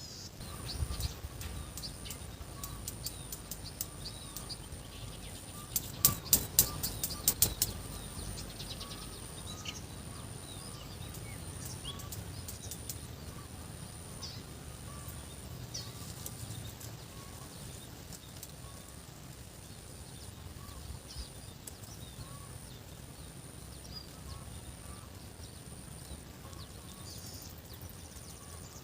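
Birds chirping and calling, over a high steady tone with short breaks about once a second. A quick run of loud, sharp clicks about six seconds in.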